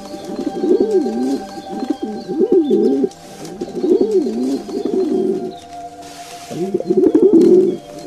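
Pigeons cooing: a run of rising-and-falling coo phrases, one every second or so, the loudest near the end.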